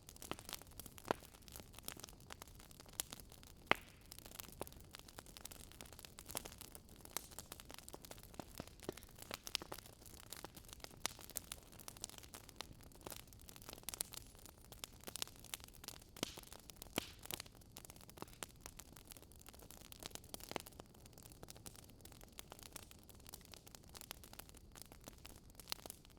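Campfire wood burning, crackling and popping at irregular moments over a soft steady hiss, with one sharper pop about four seconds in.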